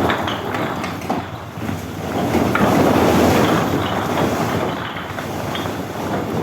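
Heavy truck and paving machinery running: a loud, noisy rumble that eases about a second in and swells again around three seconds.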